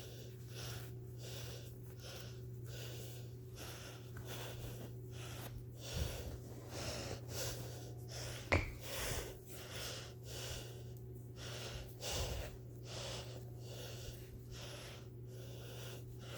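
A person breathing close to the microphone in repeated short noisy puffs, over a steady low hum, with one sharp click about eight and a half seconds in.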